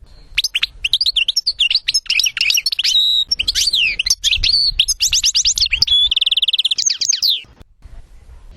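A songbird singing a fast, dense run of chirps and sweeping twittered notes, with a rapid even trill about six seconds in; the song stops about a second before the end. It is recorded song of the kind used to train captive goldfinches.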